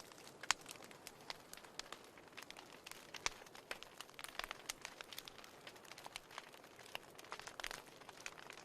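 Wood fire in a fireplace crackling, with frequent irregular sharp pops over a soft steady hiss of flames.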